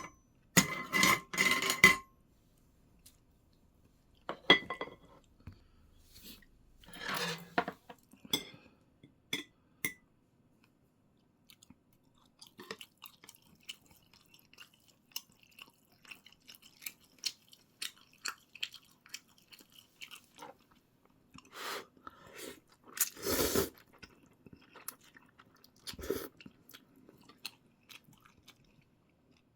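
Close-up chewing and mouth sounds of someone eating, with small wet clicks. It opens with ringing clinks of tableware, and a couple of louder thuds come in the last third.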